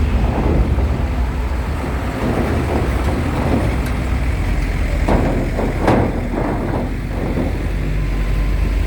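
Heavy trucks and buses running and moving on the ferry ramp, a steady low engine rumble with a cluster of short noisy bursts and one sharp one about six seconds in.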